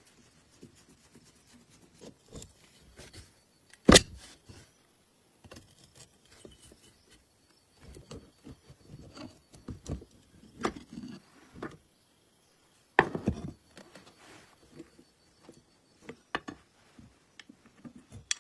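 Irregular knocks, clicks and short scraping sounds of hand work on old sewing-machine parts, with two sharp knocks, one about four seconds in and one about thirteen seconds in.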